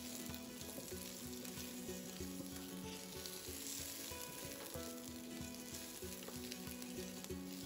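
Shallots, garlic, ginger slices and whole spices sizzling steadily in a little oil in a non-stick wok while being stirred with a spatula. Quiet background music with a steady beat plays underneath.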